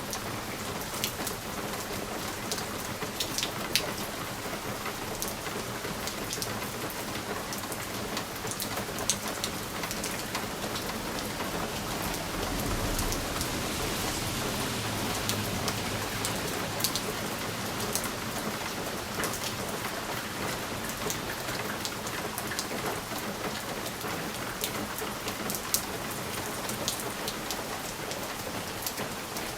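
Steady rain pattering on window glass, with many individual drops ticking sharply against it. A low rumble swells for a few seconds near the middle.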